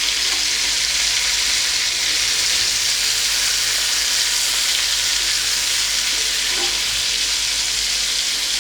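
Marinated chicken legs shallow-frying in hot oil in an open pan: a steady sizzle.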